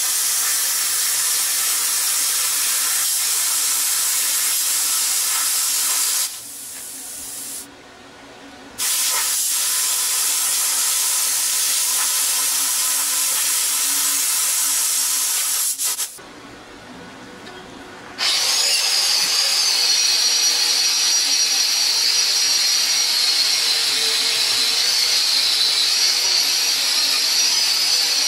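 Power tools working steel: a loud steady hiss, broken twice by short pauses. About two-thirds of the way through, a tool with a high, wavering whine takes over.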